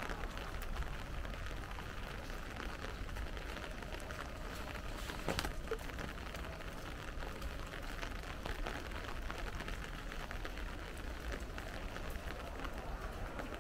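Light rain falling: many small drop ticks over a steady low rumble, with one louder click about five seconds in.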